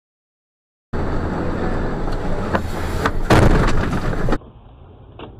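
Vehicle crash picked up by a dashboard camera: loud road and engine noise with a run of bangs, the loudest a little over three seconds in. Near the end it cuts to a quieter, muffled clip with a few clicks.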